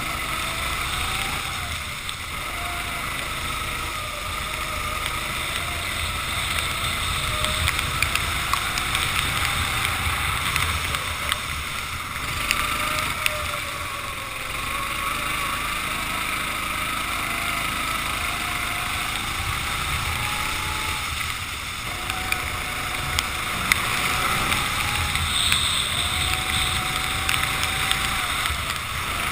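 Racing kart engine at speed, its pitch rising and falling again and again as it accelerates and lifts through the corners. It runs over a steady hiss of wind and water spray from the wet track, with scattered sharp clicks.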